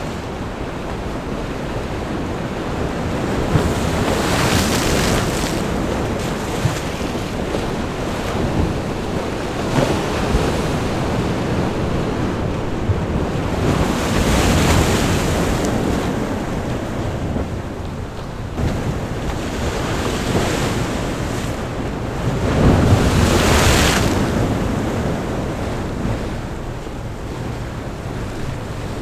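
Sea waves breaking hard against a rocky shore and throwing spray, over a constant wash of surf. Big surges hit about four, fourteen and twenty-three seconds in, the last the loudest.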